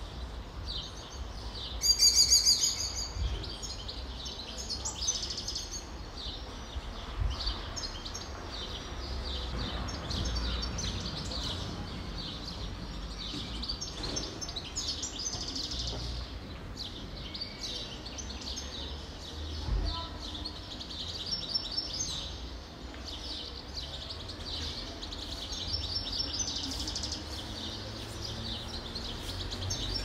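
Several wild birds singing and chirping together in a woodland chorus: many short, high chirps and trills overlap throughout. One louder call about two seconds in is the loudest thing, over a low rumble.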